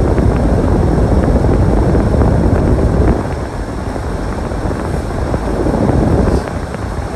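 Storm wind buffeting the microphone: a loud, low rumble that swells for the first three seconds, eases, and gusts again shortly before the end.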